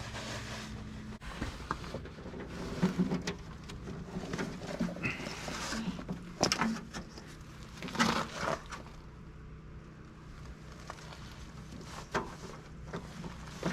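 Irregular rustling and light knocks of electrical wires being handled and routed along a tractor, over a steady low hum.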